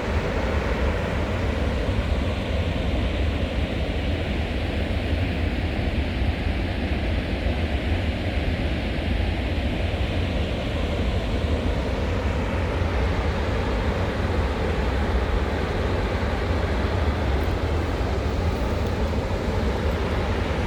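Steady low rumble and road noise of a vehicle driving, unbroken throughout.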